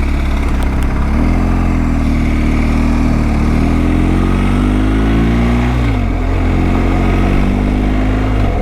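Motorcycle engine pulling away under load, heard from the rider's seat with wind noise. About a second in the revs pick up and climb slowly; near six seconds the pitch drops sharply as it changes up a gear, then it runs steadily.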